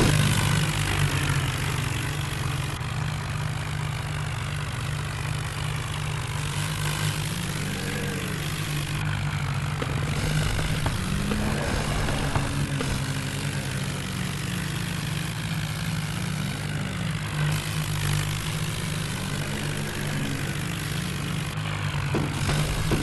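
Tractor diesel engine running steadily with a low, even hum.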